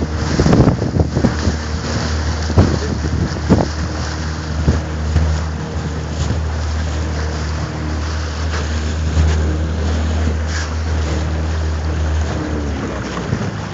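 Motor of a small fishing boat running steadily, with wind buffeting the microphone; the engine hum stops about a second before the end. A few knocks sound in the first few seconds.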